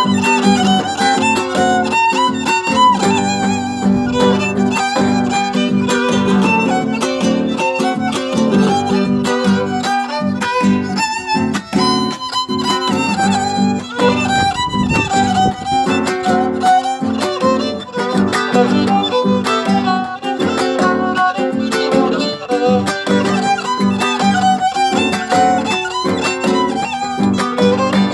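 Instrumental gato (folk dance tune): a melody line played with vibrato over a guitar accompaniment.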